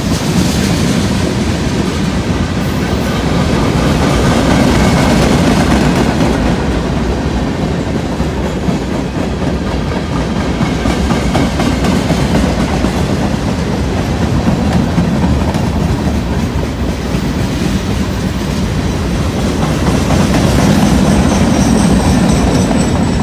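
Freight train rolling past, its cars' wheels clattering steadily over the rails.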